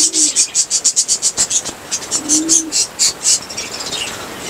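A flock of budgerigars chattering: rapid, high-pitched chirps, several a second, thinning out near the end.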